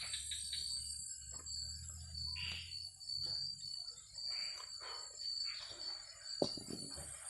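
Steady chirring of crickets, with scattered knocks and rustling of things being handled close by; one sharper knock about six and a half seconds in.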